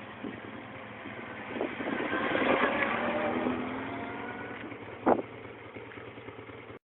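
A motor vehicle's engine passing by, swelling and then fading with its pitch sliding down, followed by a sharp knock about five seconds in. The sound cuts off suddenly near the end.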